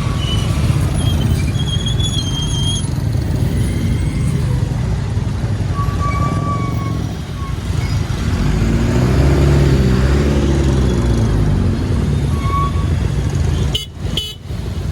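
Steady wind and road noise from a motorcycle riding along a busy highway. About nine seconds in, a larger vehicle's engine swells and fades as it passes, and the sound briefly drops out near the end.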